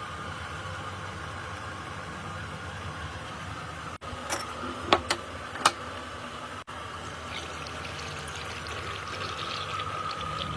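Steady hum of candle-factory machinery running, with four sharp clinks a little before the middle and a light ticking patter near the end.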